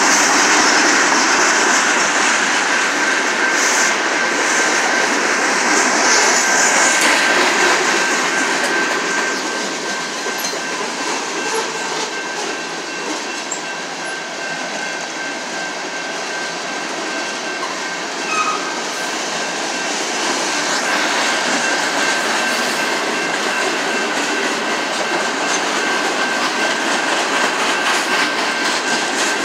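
A freight train's cars roll past at close range, wheels clacking and squealing on the rails, with a steady high-pitched tone throughout.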